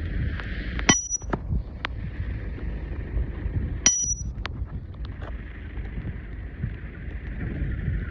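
Wind buffeting the microphone, with two short, sharp high-pitched metallic rings about three seconds apart.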